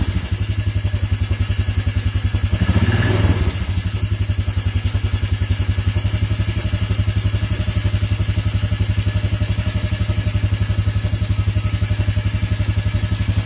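Engine idling cold just after a cold start, its beat pulsing evenly and quickly. The note briefly swells about three seconds in.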